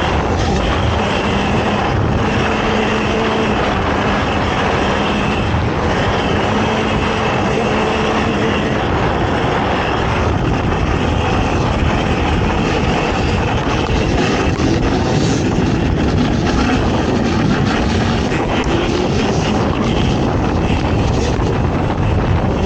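ATV engine running hard through an off-road race, its note shifting with the throttle, under a heavy rumble of wind and buffeting on the microphone.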